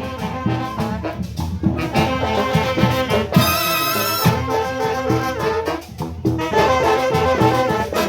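Brass band music, with trumpets and trombones playing a Latin dance tune over a steady beat.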